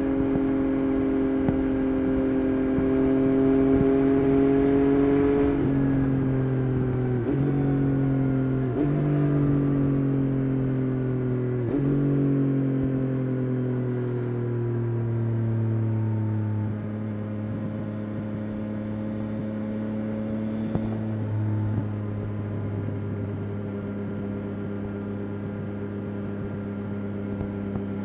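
Yamaha Tracer 9 GT+'s 890 cc CP3 inline three-cylinder engine through a Roadsitalia titanium exhaust, on the move. Its pitch climbs for about five seconds, then the throttle closes and the note falls away through three quick gear changes. For the last ten seconds or so it holds a steady lower note.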